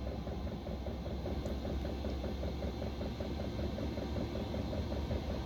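Chinese diesel air heater running: a steady hum from its combustion fan and burner, with a fast, even ticking pattern over it.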